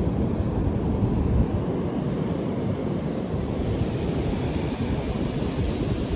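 Strong wind buffeting the microphone as a rough, flickering rumble, with surf breaking on the beach behind it.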